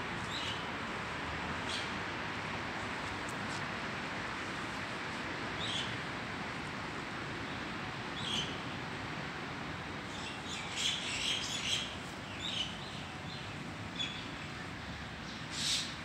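Small birds chirping in short, scattered calls, several in quick succession between about ten and twelve seconds in, over steady background noise.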